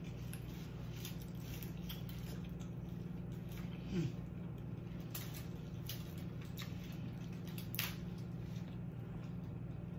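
Chewing smoked sausage: soft wet mouth clicks and smacks over a steady low hum, with a short falling 'mm' about four seconds in.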